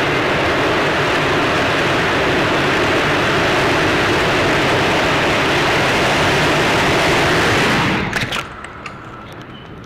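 Loud, steady tornado wind noise with no distinct pitch, cutting off suddenly about eight seconds in. After that there is a much quieter background with a few sharp clicks.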